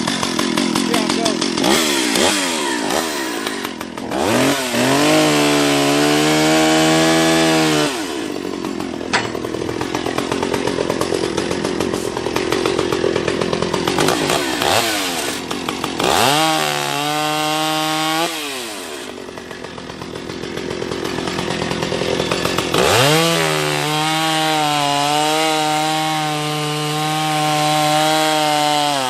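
Gas chainsaw revved from idle up to full throttle three times, held high for a few seconds each time, and dropping back to a lower rough running in between.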